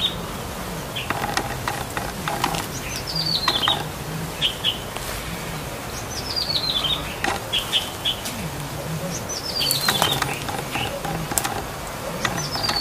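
Caged songbirds at a market bird stall: one bird repeats a short, quick run of high notes falling in pitch about every three seconds, among other chirps, sharp clicks and wing flutters.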